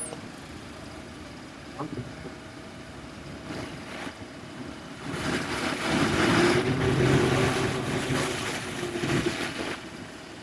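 Heavy diesel machinery engine running, with a rushing noise; about five seconds in it grows louder for several seconds, working harder, then drops back.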